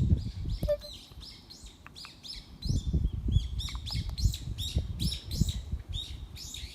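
A small bird chirping: a steady run of short, high, down-slurred chirps, two to three a second, with low rumbling noise underneath.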